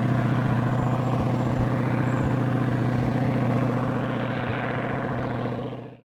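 Piston airplane engine running steadily with a deep, even drone. It eases slightly, then cuts off suddenly near the end.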